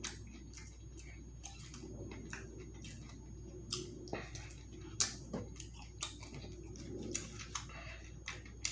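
Close-miked eating sounds: chewing with irregular wet smacks and clicks of the mouth, a couple louder ones midway, over a low steady hum.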